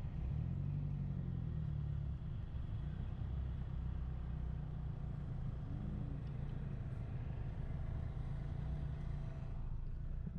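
Steady low engine drone of a moving vehicle, with small shifts in pitch but no sudden events.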